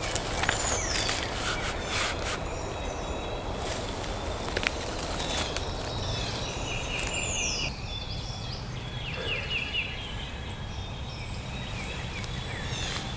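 Wild songbirds singing in woodland: several clear whistles sliding down in pitch, and a short buzzy trill about six seconds in and again near nine seconds, over a steady outdoor hush with a few faint rustles.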